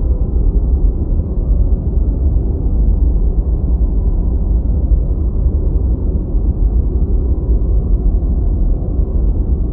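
Steady, deep synthetic noise played as a study aid: an even, low rumbling hiss with almost nothing in the treble, unchanging throughout.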